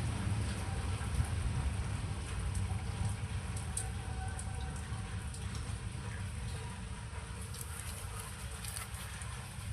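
Rain falling during a thunderstorm, over a low rumble of thunder that slowly dies away. From about three-quarters of the way in, sharp ticks of drops striking close by stand out.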